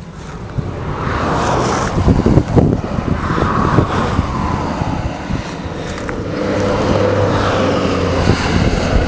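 The 1964 Thunderbird's 390 V8 engine running, getting louder about a second in, with sharper surges around two to three seconds in before settling to a steadier sound.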